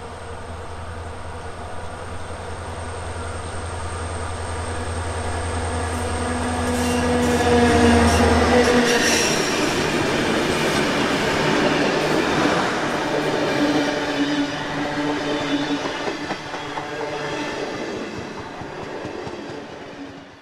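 A train passes. A steady low hum builds over the first eight seconds and stops about nine seconds in. Then there is the rumble of wheels on rail, which is loudest for a few seconds and fades away.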